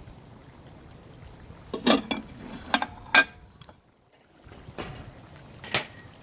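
Kitchen utensils and dishes clinking and knocking together, a handful of separate knocks with brief ringing.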